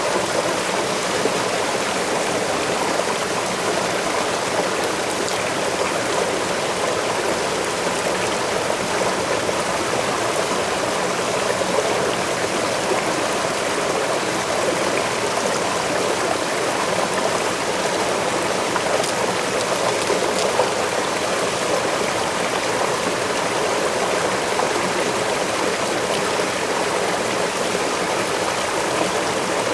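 Waterfall and stream water rushing steadily, an unbroken even sound.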